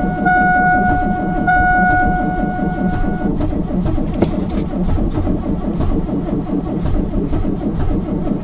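A 1998 Pontiac Grand Am GT's engine being cranked over by the starter in bitter cold, with a fast, even cranking rhythm that never catches: a cold no-start. A steady high tone sounds over the cranking for the first three seconds or so, then stops.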